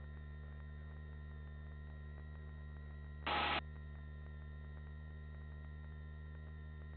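Steady low hum made of several fixed tones, as heard through a helicopter's headset intercom feed, with a short hiss about three seconds in as a microphone briefly opens.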